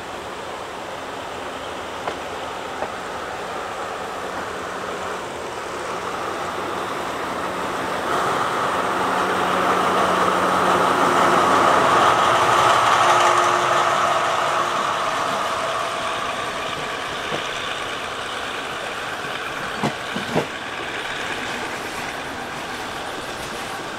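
Passenger train running along the track, heard from inside a coach: a steady rumble and rush that swells to its loudest about halfway through and then eases off again, with a few sharp clicks a few seconds before the end.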